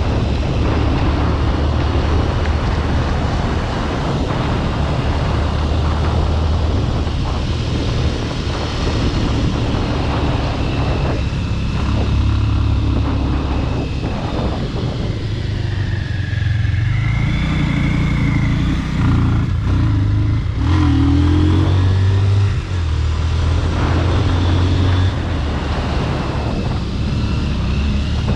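Bajaj Pulsar RS200's single-cylinder engine, fitted with a modified exhaust, running under way at varying revs. The revs climb about two thirds of the way through, with a brief drop soon after, as at a gear change.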